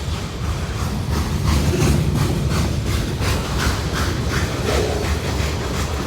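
Freight cars of a long CSX manifest train rolling past: a steady low rumble with wheel clicks over the rail joints, about three a second.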